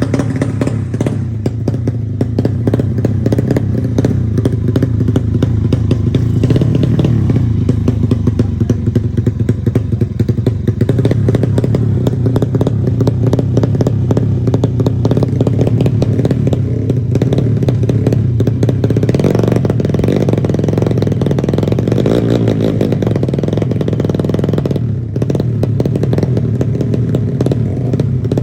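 Motorcycle engine, a Honda Supra four-stroke bored up to 150cc in a Yamaha Jupiter drag bike, running loud and steady with rapid firing pulses. Its sound shifts about two-thirds of the way through and drops briefly a few seconds before the end.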